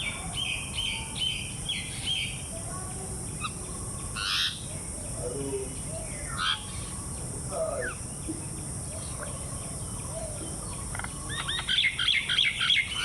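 Several birds calling and chirping, with short chirps in the first two seconds and a quick run of many chirps near the end, over a steady high-pitched hiss.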